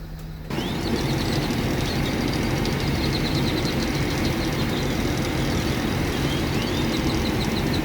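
A large diesel engine idling steadily and loudly close by. It cuts in sharply about half a second in.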